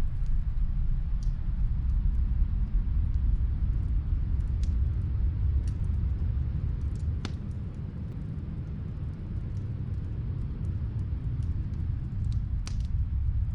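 Snowstorm wind as a steady low rumble, with scattered faint crackles and pops from a fireplace fire heard muffled from another room.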